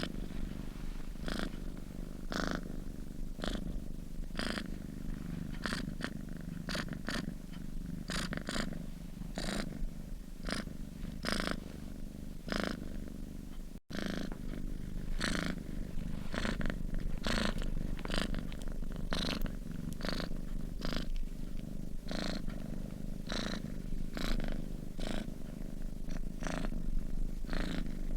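Domestic cat purring steadily in its sleep, a continuous low rumble with a brief break about halfway through.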